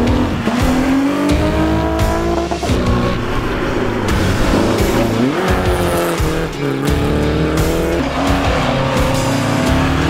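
Rally car engines revving hard under acceleration. The pitch climbs through each gear and drops sharply at the shifts, about three times.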